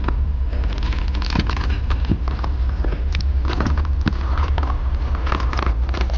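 A boat running at sea: a steady low motor and wind rumble with many sharp crackles and knocks over it.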